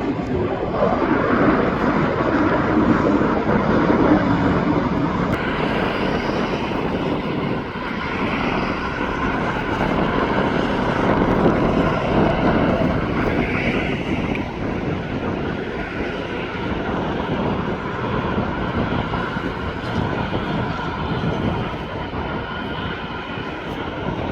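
Jet airliner engines running: a loud, steady rush of noise with faint whining tones, easing off slightly near the end.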